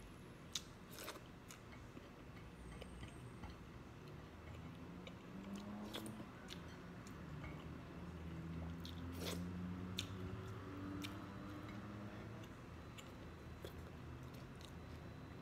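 Person chewing fried galunggong (round scad) eaten by hand, with soft mouth sounds and scattered small clicks.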